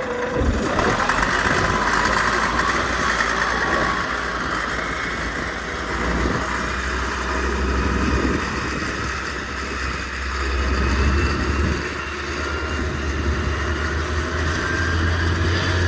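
An engine running steadily, its low hum shifting in pitch a few times as the load or throttle changes.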